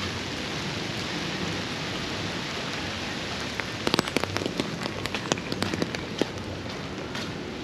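Steady rain hiss. Midway through, a flurry of sharp, irregular taps lasting about two and a half seconds rises above it.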